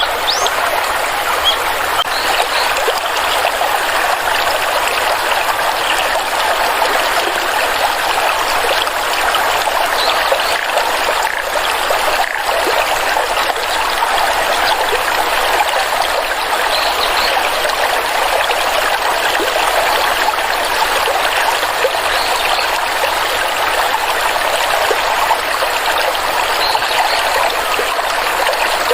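A shallow stream flowing and trickling steadily over stones.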